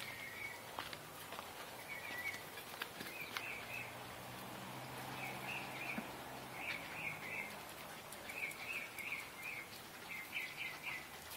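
A small bird chirping repeatedly in short runs of three or four quick, high notes, with a few faint clicks and rustles.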